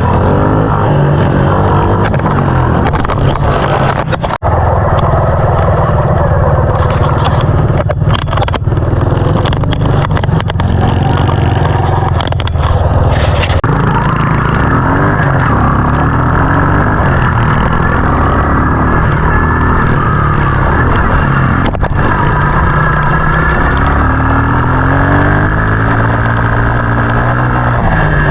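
Small single-cylinder dirt bike engine running hard close to the microphone, its revs rising and falling as it is ridden.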